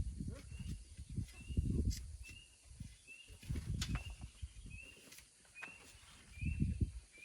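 A bird chirping a short, slightly rising note over and over, very evenly about twice a second, over irregular low thuds and scraping.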